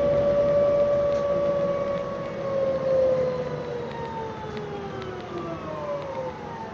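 Heuliez GX 427 hybrid bus's electric drive whining: a high tone with overtones that holds, then falls steadily in pitch over the last few seconds as the bus slows. This is the odd noise the bus is known for on this ride.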